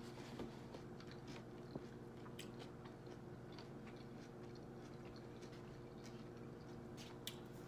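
Faint chewing of a mouthful of veggie wrap on a 9-grain tortilla, with small scattered mouth clicks and a few sharper ones near the end. A steady low hum runs underneath.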